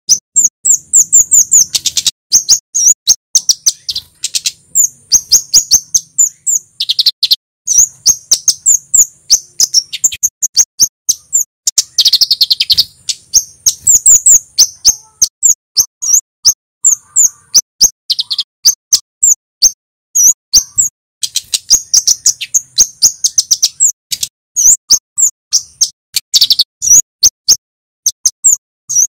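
Male kemade (flowerpecker) singing in rapid runs of sharp, high 'cit' notes, many per second, in bouts broken by brief pauses.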